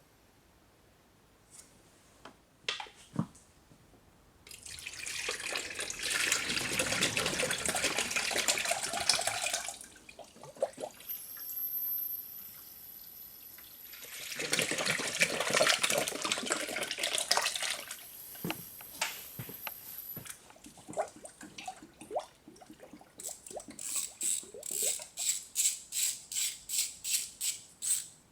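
Liquid running or splashing in two long spells of several seconds each, with scattered knocks, then a quick run of short repeated pulses, about three a second, near the end.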